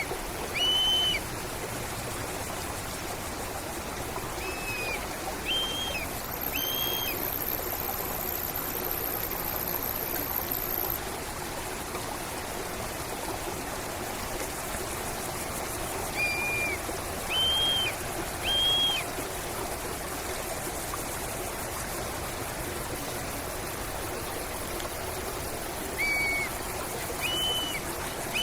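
Steady rush of a stream or river. Over it, a bird gives short clear whistles in groups of two or three, a phrase about every ten seconds.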